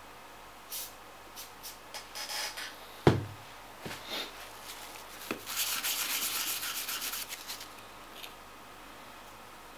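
Small parts being handled and rubbed at a workbench: scattered light clicks, one sharp knock about three seconds in, then about two seconds of steady rubbing or scraping.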